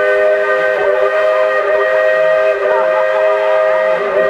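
Steam locomotive whistle of locomotive 1518 blowing one long, loud blast, several notes sounding together as a chord.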